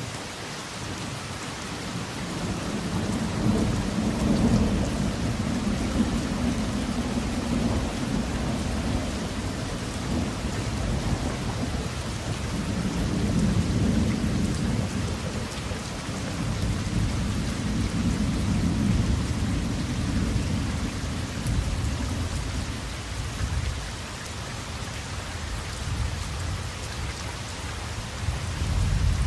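Steady rain falling, with low thunder rumbling beneath it that swells twice, a few seconds in and again for several seconds mid-way.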